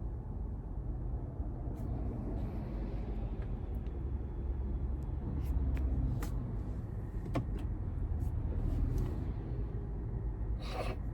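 Steady low rumble inside a parked car, with a few faint clicks and a short hiss near the end.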